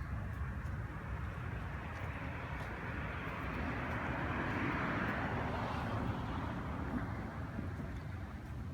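A car passing by outdoors: a hiss of tyre and engine noise swells to its loudest about halfway through, then fades, over a steady low rumble.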